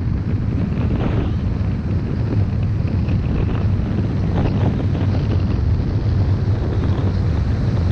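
Heavy wind buffeting the microphone: a steady, loud low rumble with irregular gusting flutter.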